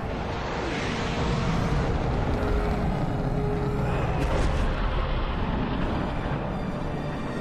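Steady rumbling roar of a missile in flight, with faint music tones held underneath.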